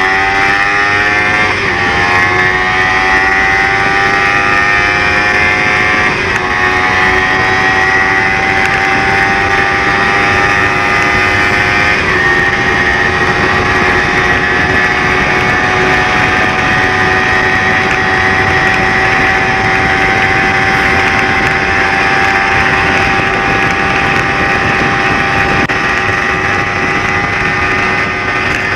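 Sport motorcycle engine accelerating hard through the gears: the pitch climbs and drops back at each upshift, three times in the first twelve seconds, then holds high and creeps slowly upward at speed.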